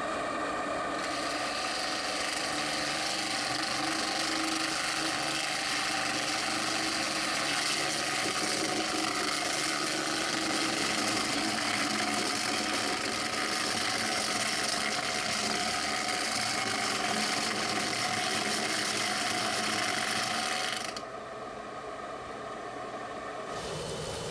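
Diakat BL-300 grinder running steadily with a grinding hiss over its motor; near the end the hiss drops away and it runs more quietly.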